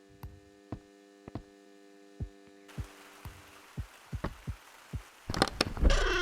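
A steady electrical hum that stops about halfway through, with irregular soft thuds throughout. The thuds grow louder and more frequent near the end, where a gliding electronic music tone comes in.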